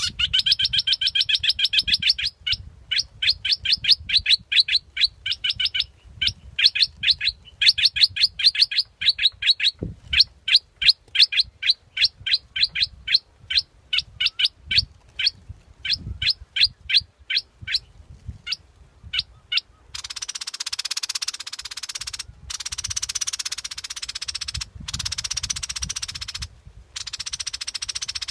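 Bulbul (Thai 'nok dok taeng') calling in long runs of fast, sharp chirping notes, about three or four a second, played as a decoy call. About two-thirds of the way through, the notes give way to a steady hiss broken by short gaps.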